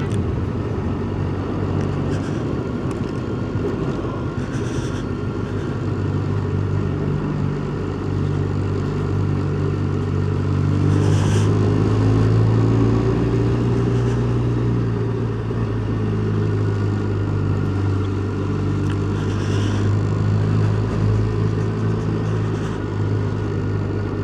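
Yamaha FZ1's inline-four engine running steadily at low, even revs, swelling slightly about halfway through, with a few short hisses.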